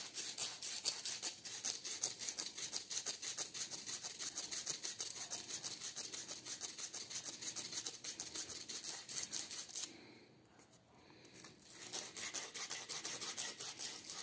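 Sandpaper rubbed back and forth by hand on the steel shaft end of an air-conditioner evaporator fan motor, in quick even strokes, several a second. The rusty shaft end is being polished smooth so that the press-fitted bearing can slide off it. The rubbing stops about ten seconds in and starts again about a second and a half later.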